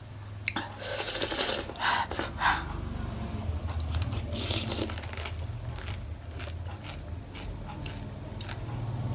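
Mukbang eating sounds: sharp clinks and scrapes of utensils against a dish with crunching, loudest and densest in the first two and a half seconds, then scattered clicks over a low steady hum.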